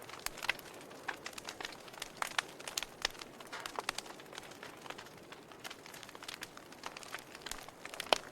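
Wood fire crackling: irregular sharp pops and snaps over a soft steady hiss of burning, with a louder pop near the end.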